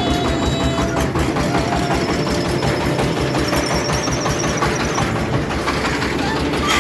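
Tractor engine running steadily, with a rapid, even chugging beat.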